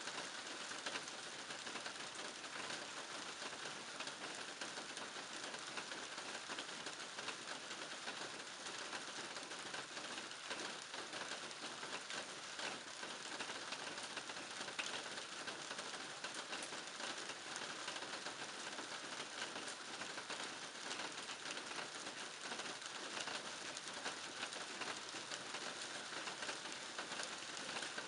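Steady rain falling on a garden, an even hiss with many small drops pattering throughout.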